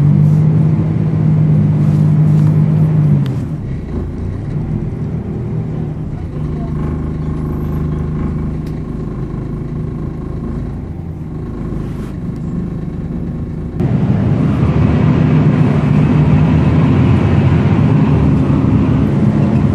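Volvo B10BLE bus engine running, easing off about three seconds in, then getting suddenly louder about fourteen seconds in, with a rush of noise on top of the engine note.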